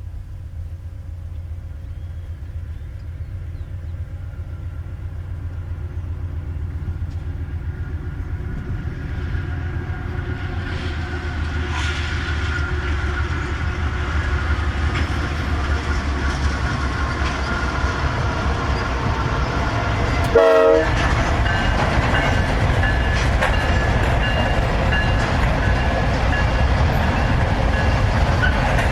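Freight train with diesel locomotives approaching, its low rumble growing steadily louder. A short horn blast sounds about two-thirds of the way through, followed by steady high-pitched tones over the rumble as the train draws close.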